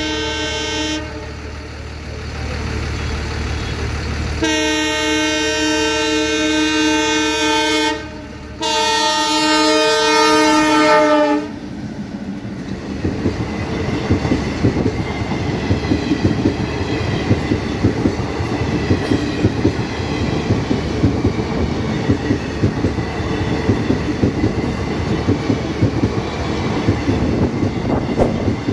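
Indian Railways locomotive horn sounding three blasts as the train reaches the level crossing, a short one and then two long ones. After that the passenger coaches run past, their wheels clacking rhythmically over the rails.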